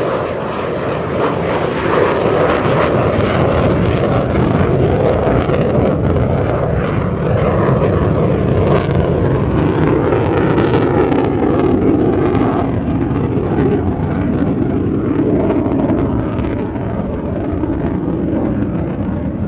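Saab AJS 37 Viggen's Volvo RM8 afterburning turbofan, loud and steady as the jet flies its display, with slowly shifting pitch in the jet noise.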